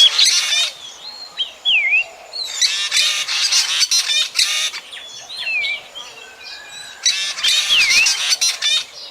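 Black drongo calling: three bursts of harsh, rapid chattering notes, with single whistled notes that dip and rise again in between.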